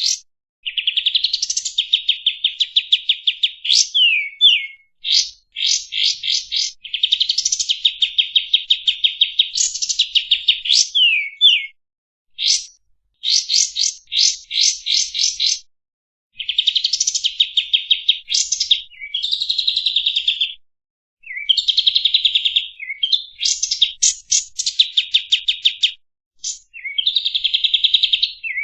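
Kapas tembak singing a varied song: phrases of fast chattering trills mixed with short downward-sliding whistles, broken by brief pauses.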